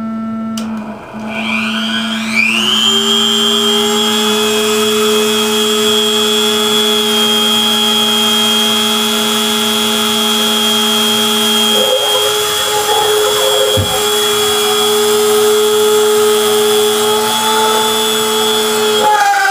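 A CNC machine's router switched on over a steady electrical hum: about a second in it spins up, its whine rising in pitch, then runs at a steady high whine. There is a single knock about fourteen seconds in.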